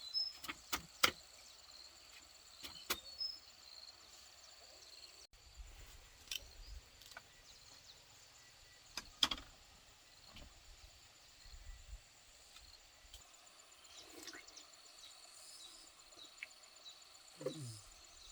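Faint rural background: a steady high-pitched insect drone, with scattered sharp clicks and knocks. A short falling call comes near the end.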